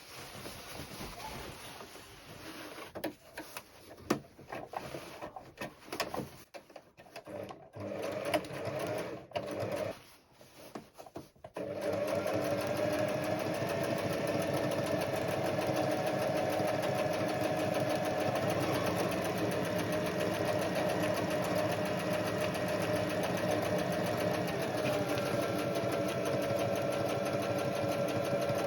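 Sewing machine, with scattered clicks and short bursts of stitching at first. From about twelve seconds in it sews in one long steady run, its pitch dropping slightly near the end.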